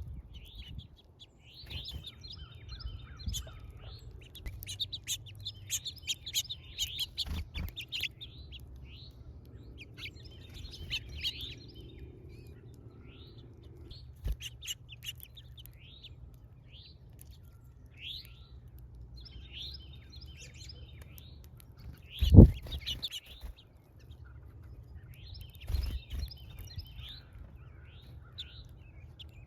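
Small birds chirping at a feeder: many short, high chirps in busy clusters, coming and going. A loud thump about two-thirds of the way through, with a few softer knocks elsewhere.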